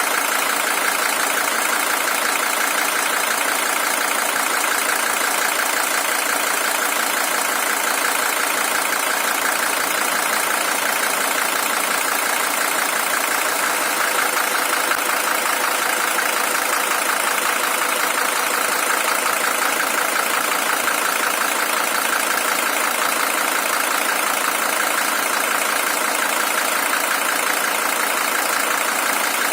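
Mercedes-Benz OM617 five-cylinder diesel in a W123 300TD idling steadily, warmed up after some forty minutes of running. It is the original engine, with 620,000 km on it.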